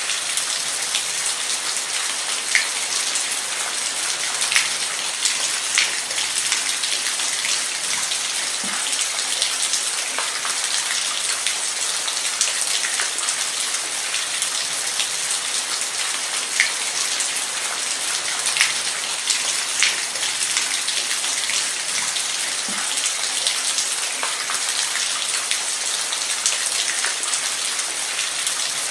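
Steady heavy rain: a dense, even hiss of falling rain with individual drops ticking sharply through it, a few of them louder than the rest.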